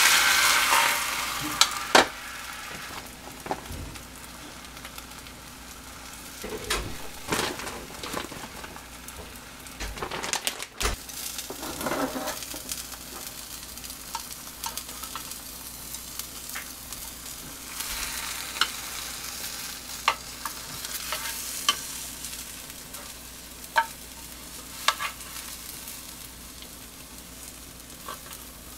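Egg mixture frying in a hot rectangular tamagoyaki pan on a gas burner, sizzling loudest in the first two seconds and then frying more quietly. Chopsticks click and scrape against the pan now and then as the omelette is worked.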